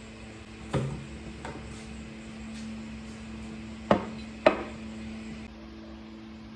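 Four sharp knocks of hard objects being handled, the last two a little over half a second apart and loudest, over a steady low hum.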